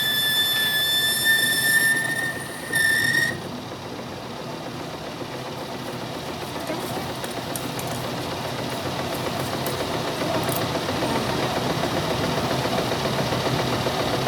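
A high, steady metal-on-metal squeal with overtones, rising slightly in pitch, that cuts off about three seconds in. A steady noisy machine sound follows and slowly grows louder.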